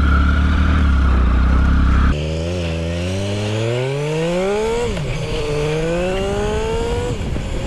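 Triumph Speed Triple's inline three-cylinder engine under way: it holds steady for about two seconds, then the revs drop and it pulls hard, its pitch rising steadily, with sudden drops at upshifts about five and seven seconds in.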